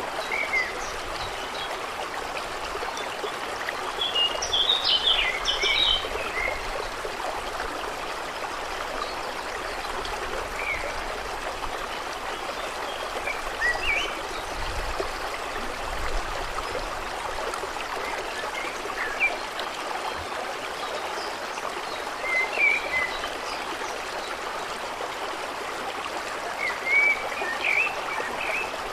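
Water running and trickling steadily, with short high bird chirps now and then, a brief flurry of them about five seconds in and more near the end.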